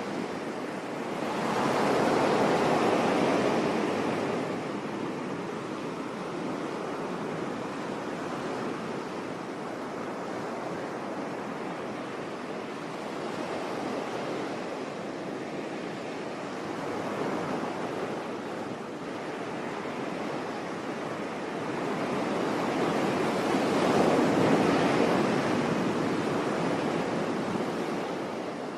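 Sea waves on a shore: a continuous rush of surf with two larger waves swelling and breaking, one about two seconds in and another near the end.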